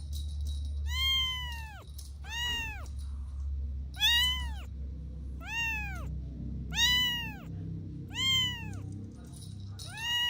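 Kitten meowing over and over: a high, rising-then-falling meow about every one and a half seconds, seven times.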